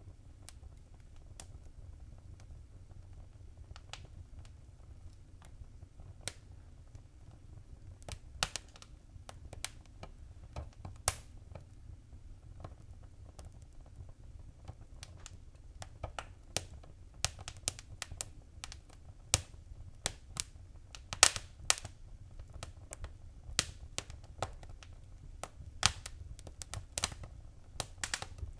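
Wood fire crackling in a fireplace: irregular sharp pops and snaps over a low steady rumble of the flames, sparse at first and coming thicker and faster after several seconds.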